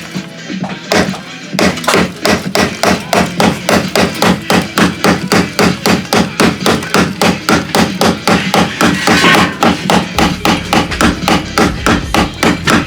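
Hammer striking the steel body of a Volkswagen Golf 3 in fast, even blows, about four a second, beginning about a second and a half in. The hammering knocks packed dirt loose from inside the panel.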